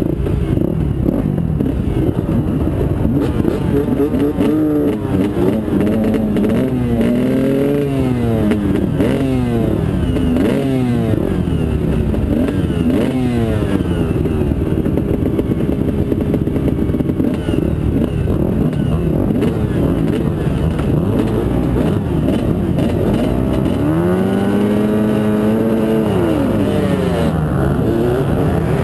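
Several motocross bikes riding around a track, their engines overlapping and revving up and down through the gears. Near the end one bike stands out, its pitch rising and then falling.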